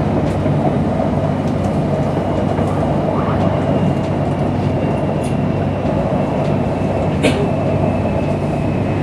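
Interior running noise of a Bangkok Airport Rail Link Siemens Desiro electric train travelling at speed. There is a steady low rumble with a faint, steady high whine over it, and one sharp click about seven seconds in.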